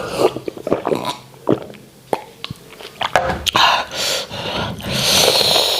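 Close-miked eating sounds: wet lip-smacking and chewing of sticky starch and white soup, with a run of sharp smacks and clicks at first, then longer wet sucking and slurping noises from about three seconds in.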